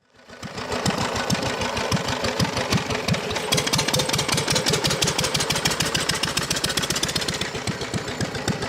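1936 Lister D single-cylinder stationary engine running steadily, with an even, rapid beat of firing thumps. It fades in at the start.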